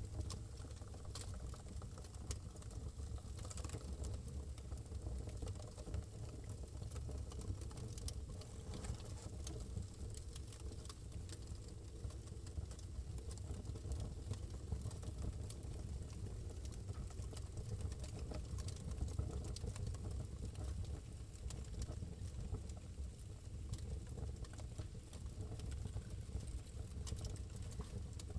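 Wood fire burning in a fireplace: scattered small crackles and pops over a steady low rumble.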